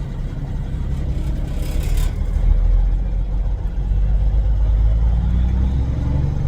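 Heavy diesel engine running, with a hiss above it that cuts off about two seconds in; near the end the engine's pitch rises as it revs up.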